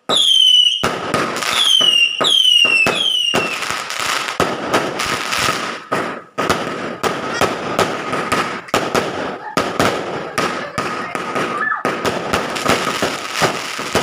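Fireworks going off: about five short whistles, each falling in pitch, in the first three seconds, then a long run of rapid firecracker crackling and sharp pops, with a steady high tone beneath.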